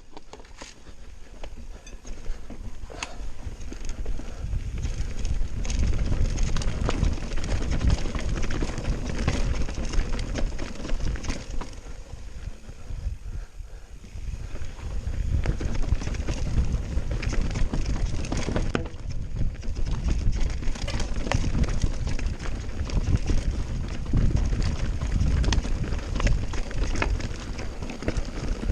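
Mountain bike descending a rough trail at speed: the tyres rumble over the ground and the bike rattles with many sharp knocks, with wind on the microphone. The noise eases briefly about halfway through, then picks up again.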